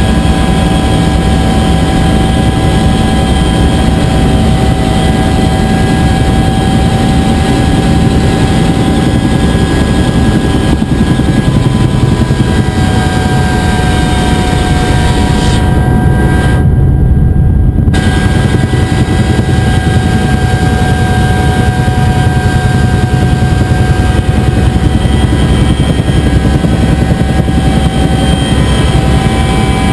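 Bell UH-1 Huey helicopter running steadily, its engine and rotor a loud, continuous drone with steady tones. The higher part of the sound briefly cuts out about sixteen seconds in.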